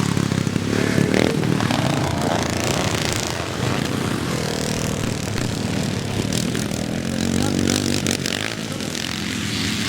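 Classic motocross bikes racing, several engines revving hard and rising and falling in pitch as they pass.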